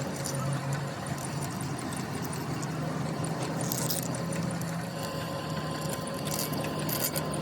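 Workshop machinery running steadily, with a low hum and scattered light clicks.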